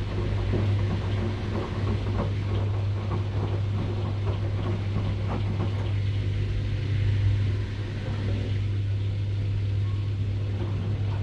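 Washing machine running: a steady low hum with irregular clicks and swishing over it. The clicks and swishing die down for a few seconds in the second half, then pick up again.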